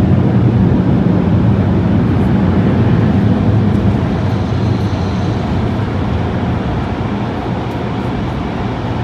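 Automatic car wash air-dryer blowers running, heard from inside the car as a loud, steady rush that slowly eases off over the second half.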